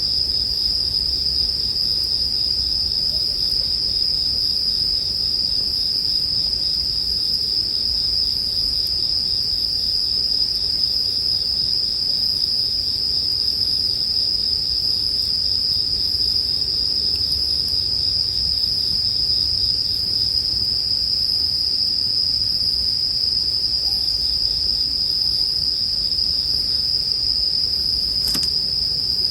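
Japanese bell crickets (suzumushi) singing: a steady, high-pitched, continuous trill, with one faint snap near the end.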